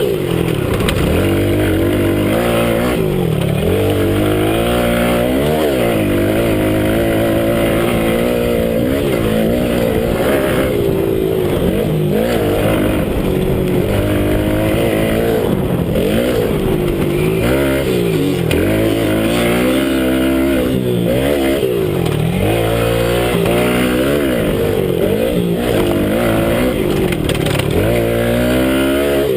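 Minibike motocross engine heard onboard, revving up and dropping back again and again as the rider opens and closes the throttle around the track.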